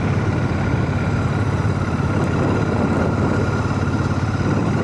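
Royal Enfield Shotgun 650's parallel-twin engine running steadily on the move, heard from a mic inside a full-face helmet, with road and wind noise.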